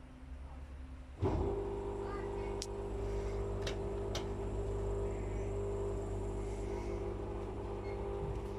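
Whirlpool FL 5065 front-loading washing machine's drain pump switching on about a second in and running with a steady hum, with the door lock not engaged. A few light clicks sound shortly after it starts.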